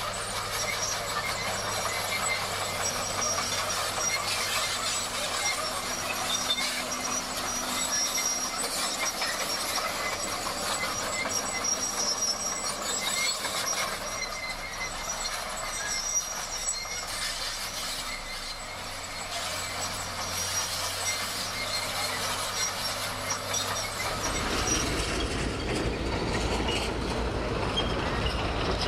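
Heavy earthmoving machinery running steadily, with high metallic squealing such as crawler tracks make, over an engine hum; a deeper engine rumble swells in about 24 seconds in.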